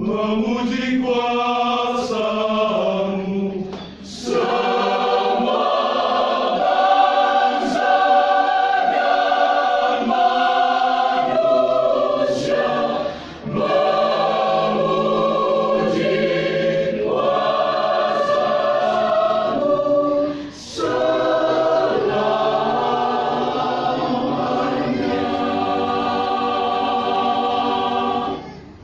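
Church choir singing a slow piece in long held notes, with brief pauses between phrases about 4, 13 and 21 seconds in. The final chord ends just before the close.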